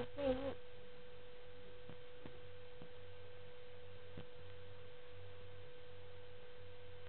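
A faint, steady electronic tone holding one pitch, over a low hum, with a few faint clicks. A brief voice sound with falling pitch comes at the very start.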